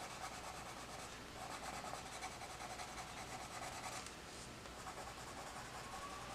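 Coloured pencil rubbing and scratching softly across a colouring-book page as an area is shaded in with steady back-and-forth strokes.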